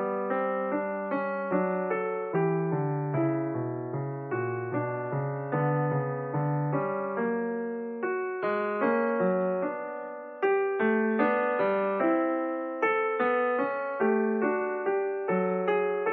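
Background piano music: a gentle melody of single notes, about two a second, each struck and then fading away.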